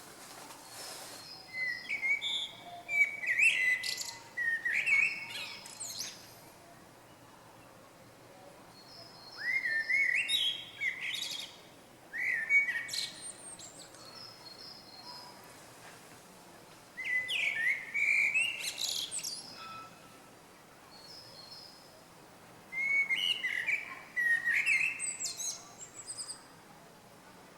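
A small songbird singing: five phrases of quick, high chirps and short whistled glides, each lasting a few seconds, with pauses of a few seconds between them.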